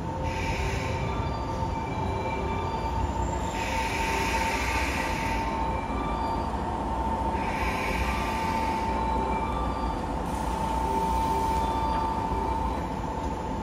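JNR 117 series electric train creeping into a station platform and braking to a stop, with a steady high brake squeal over the low rumble of the wheels and four bursts of hiss a few seconds apart.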